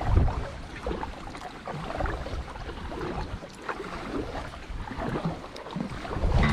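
Water sloshing and splashing irregularly around a sea kayak, with a low wind rumble on the microphone near the start.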